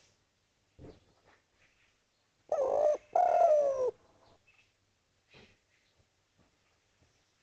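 Spotted dove (derkuku) cooing: two coos back to back, about two and a half seconds in, each falling in pitch, with a couple of faint ticks around them. It is the dove's call to companions or rival doves.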